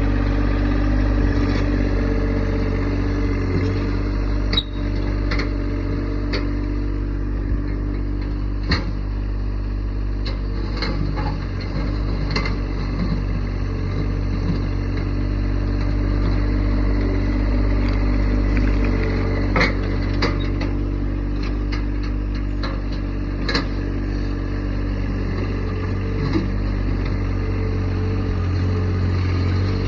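Tractor engine running steadily while digging dirt, with sharp knocks and clanks now and then.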